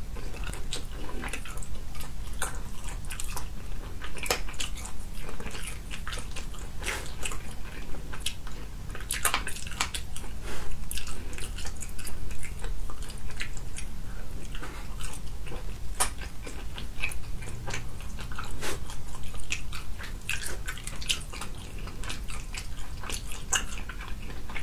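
Close-miked eating: biting and chewing of braised food, with many small wet mouth clicks and smacks.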